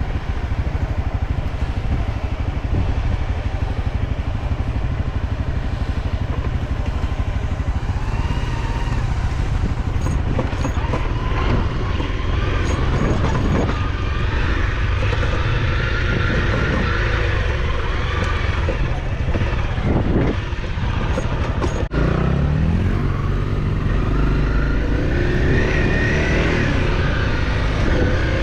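Off-road motorcycle engine running steadily under way, revving up several times in the last third with rising pitch. A single sharp click comes about two-thirds of the way in.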